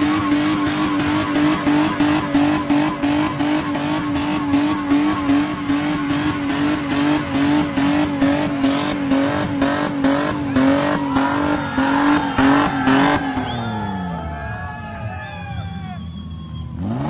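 Toyota Mark X engine held at high revs with a fast, even pulsing while the car spins on loose dirt with its rear wheels spinning. About thirteen seconds in the revs fall away, then rise sharply again at the very end.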